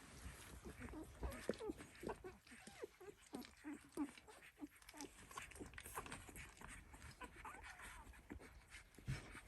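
Eight-day-old Dalmatian puppies making faint, frequent short squeaks and grunts that rise and fall in pitch, with small clicks among them.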